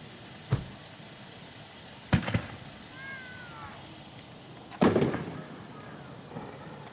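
Killer Kong, a 3-inch 9-shot consumer fireworks cake, firing shells heard from a distance as sharp booms. One comes about half a second in, a quick pair about two seconds in, and the loudest about five seconds in, with a rumbling tail.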